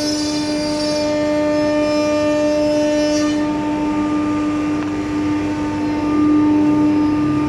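Biesse Rover flat-table CNC router running, its spindle giving a steady pitched whine with overtones; the upper tones fall away about three seconds in.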